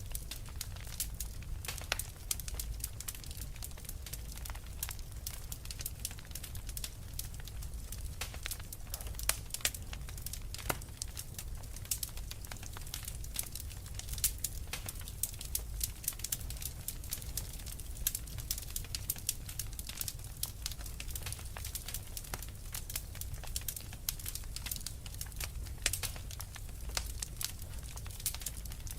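Wood fire crackling steadily, dense irregular pops and snaps over a low rumble of the burning fire.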